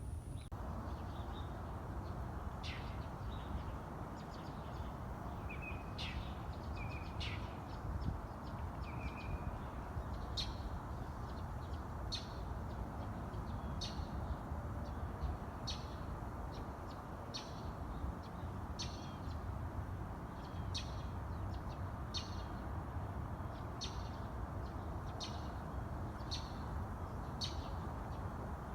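Small birds chirping: a short chip call repeated about once a second, with a few other brief calls earlier, over a steady low background rumble.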